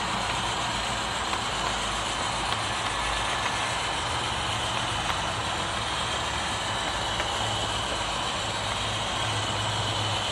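HO scale model locomotive running on the layout, with a steady engine-like hum and no clear changes.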